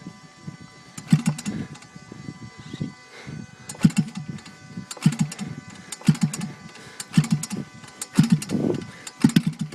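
JC Engines 120cc gas model airplane engine being cranked over for starting, giving short bursts of a few strokes roughly once a second without catching and running.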